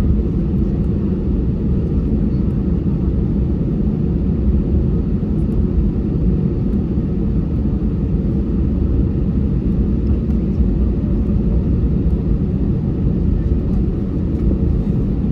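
Steady low rumble inside the passenger cabin of an Airbus A320, its engines running at low power before the takeoff roll.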